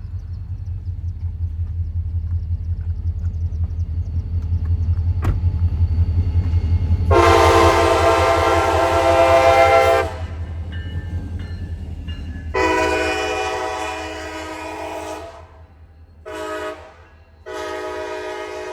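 Diesel locomotive engine rumbling as a train approaches, then the locomotive's air horn sounds the grade-crossing pattern: two long blasts, one short, then a long one that is still sounding at the end. The horn is the loudest part.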